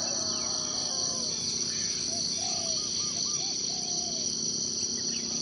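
Forest ambience: a steady high-pitched drone of insects, with birds calling over it in short arched notes and a quick run of repeated notes about two seconds in.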